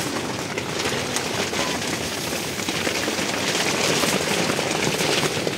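Steady rain pattering, an even dense patter without pauses.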